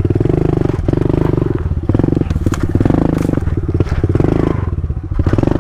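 Kawasaki KLX110 pit bike's single-cylinder four-stroke engine running at low revs, a steady rapid putter that dips slightly now and then.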